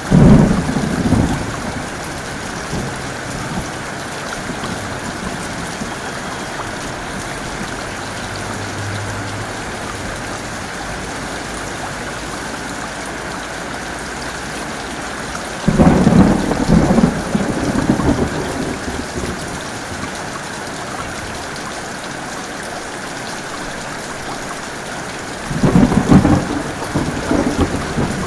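Steady heavy rain with thunder rumbling three times: at the very start, about halfway through, and again near the end, each rumble lasting two or three seconds.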